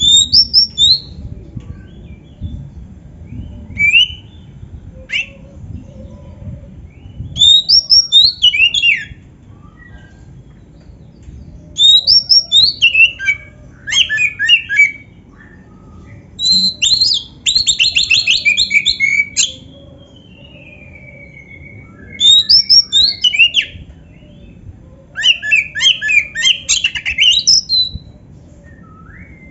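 Oriental magpie-robin (kacer) singing loud phrases of sweeping whistles, rapid trills and harsh chattering notes, worked through with canary-like fill-ins, in bursts of one to three seconds with short pauses between them.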